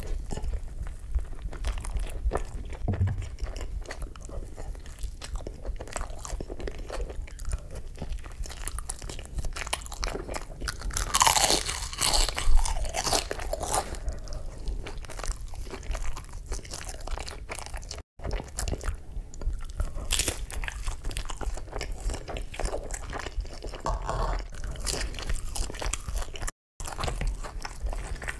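Close-miked eating of fast food: steady wet chewing and crunchy bites. There is a louder run of crunching about eleven to thirteen seconds in, and the sound drops out for an instant twice.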